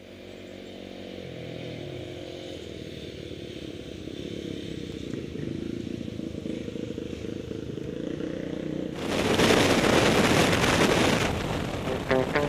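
Off-road motorcycle engine idling, heard from the rider's helmet. About nine seconds in the bike pulls away, and loud engine and wind noise take over.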